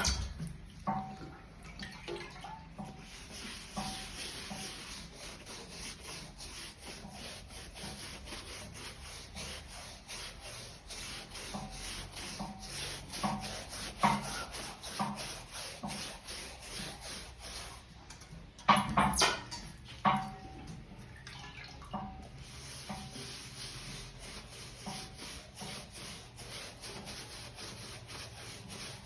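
Brush rubbing rubber solution onto a truck tyre: a fast, continuous run of short scrubbing strokes, with a louder clatter about two-thirds of the way through.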